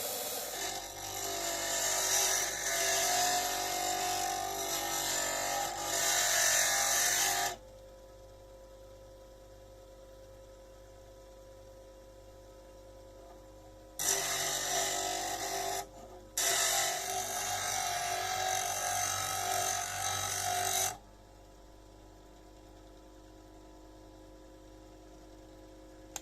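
A power tool's motor running steadily while an old steel chisel is ground against it, with three spells of loud, rough grinding: a long one at the start, then two more in the second half with a short break between them. Between the spells only the motor's steady hum is left.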